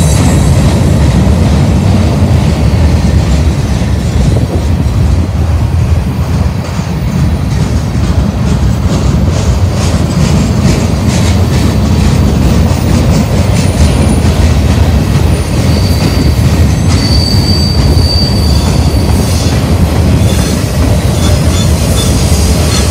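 Freight cars of a Union Pacific manifest train rolling past with a heavy, steady rumble and the clatter of wheels over the rail. A few brief, high wheel squeals come about two-thirds of the way through.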